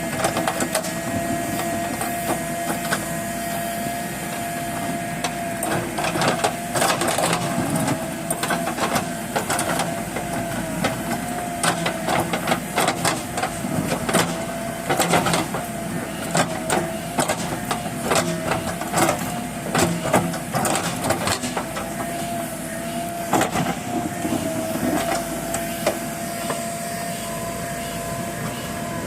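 JCB backhoe loader running, with a steady, slightly wavering whine and many sharp knocks and clanks, thickest through the middle.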